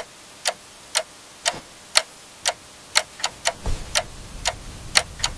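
Steady ticking, about two ticks a second with a few extra ticks in between, like a clock. A low rumble joins about two-thirds of the way in.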